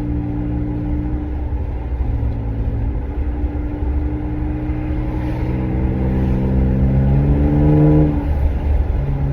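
Pickup truck engine through a new MBRP aftermarket exhaust, heard from inside the cab while driving. It runs steadily, then climbs in revs for about three seconds from around the middle and drops back in pitch near the end, as on an upshift.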